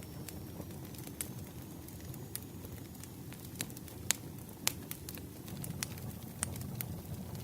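Campfire crackling: irregular sharp pops and snaps over a low, steady rumble of burning wood, with two louder pops a little past the middle.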